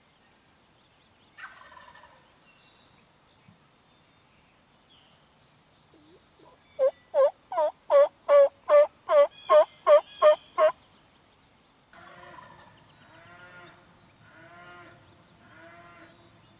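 Wild turkeys calling from the roost: a loud run of about eleven evenly spaced notes over about four seconds, then fainter, rattling gobbles in three pulses near the end.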